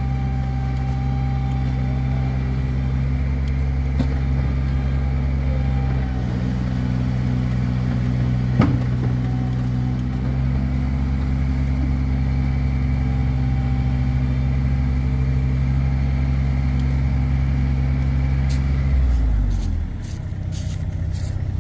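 A vehicle engine running steadily at raised speed, then dropping to a lower speed near the end. There is a single sharp knock partway through.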